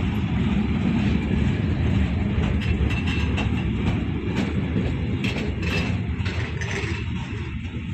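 Train passing on the rails with a steady low rumble and scattered clicks and squeaks from the wheels.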